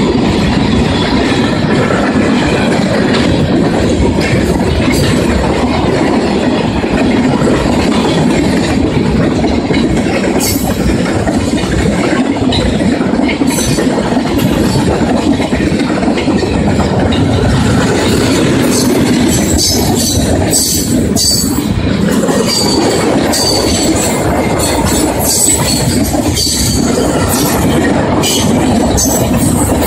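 Freight cars rolling past: a steady, loud rumble of steel wheels on rail with clacking over the joints. Sharp high squeaks and clicks come more often in the second half.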